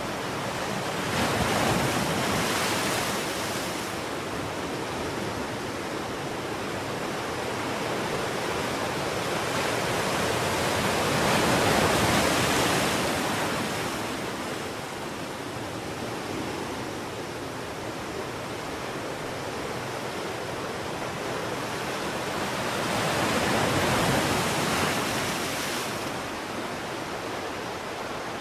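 Sea waves breaking on a shore: a steady rush of surf with three larger waves swelling and washing in, about ten to twelve seconds apart.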